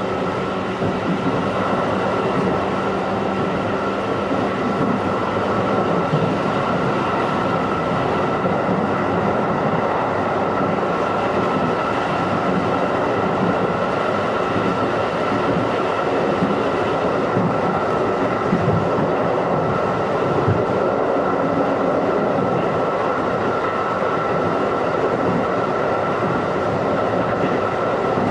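JR 211 series electric multiple unit running at a steady pace, heard from inside the passenger car: a continuous rumble of wheels on rail with a steady high ringing tone over it.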